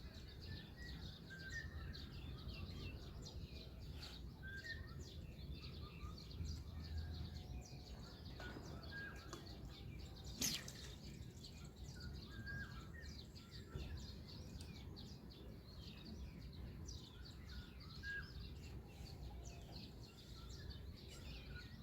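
Small birds chirping and twittering in many short, high calls over a low steady background rumble, with one sharp click about ten seconds in.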